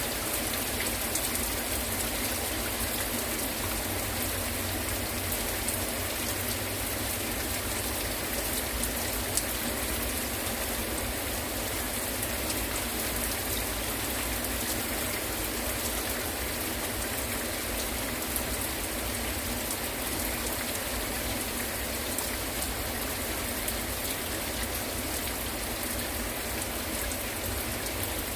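Heavy rain falling steadily, its drops pattering on hard surfaces.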